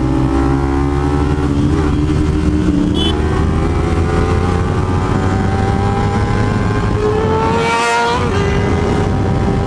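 Kawasaki Ninja 300's parallel-twin engine pulling hard under full throttle in a street race. Its pitch climbs steadily through each gear, with quick upshifts about three seconds in and again near eight seconds, over rumbling wind noise.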